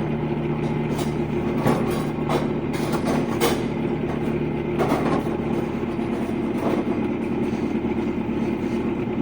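Steady hum of running machinery, a low even drone, with a handful of sharp knocks or clicks at uneven intervals during the first seven seconds.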